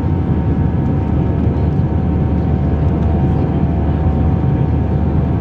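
Airbus A320 jet engines and airflow heard from inside the cabin: a steady roar with a low rumble and a constant whine, at high thrust.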